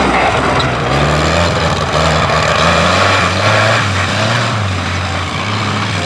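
Tractor engine running under load, its low note rising and falling as the revs change.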